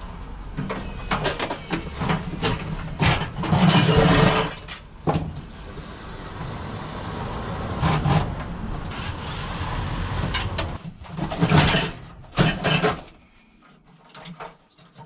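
Van engine running, with repeated clattering and knocking of scrap metal; the engine noise stops about thirteen seconds in, leaving a few lighter knocks.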